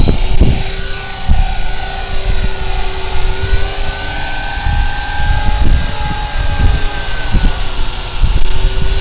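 Walkera Lama 3 coaxial electric RC helicopter's motors and rotors whining steadily in flight, the pitch drifting slowly and dipping near the end, with gusts of wind buffeting the microphone.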